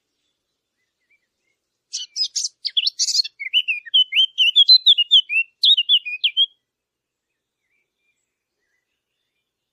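A Sylvia warbler, the 'fig bird' of Arabic hunters, singing one phrase of about four and a half seconds, starting about two seconds in: a scratchy chatter of quick high notes running into a string of clear, rapidly warbled notes.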